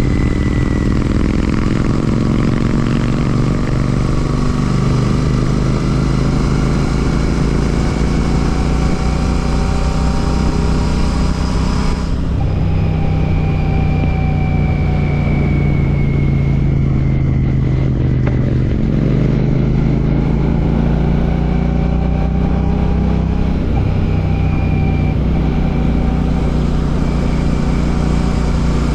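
Royal Enfield Classic 650's parallel-twin engine running through an aftermarket Ngage exhaust while riding, its note rising and falling with the throttle. The hiss above the engine note drops away abruptly about 12 seconds in.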